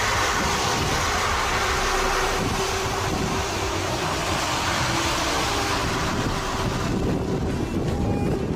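Steady road and engine noise of a moving vehicle, heard from inside, mixed with wind noise; the hiss eases off somewhat near the end.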